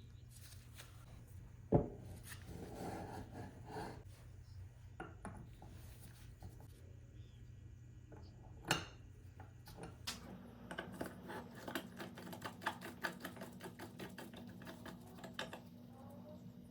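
Metal clinking: two sharp knocks, about two seconds in and again near nine seconds, then a quick run of light clicks for about five seconds.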